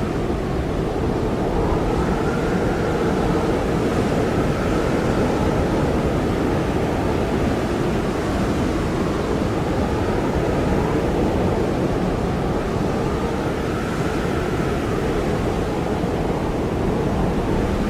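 Blizzard wind blowing hard and steadily, with a faint whistling tone that slowly rises and falls.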